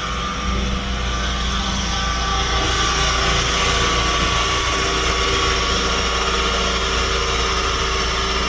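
Car engine running steadily on a chassis dynamometer, holding a constant speed with no rise or fall in pitch.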